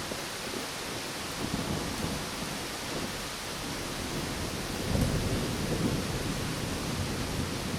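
Thunderstorm: rain falling steadily, with low thunder rumbling and swelling to its loudest about five seconds in.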